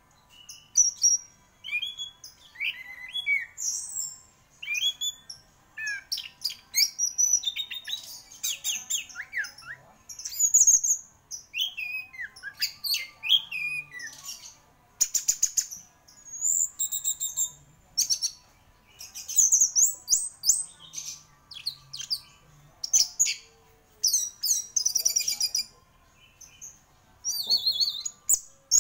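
Orange-headed thrush singing vigorously in continuous song: quick, varied phrases of whistles, rapid trills and chips, high in pitch, with short pauses between phrases.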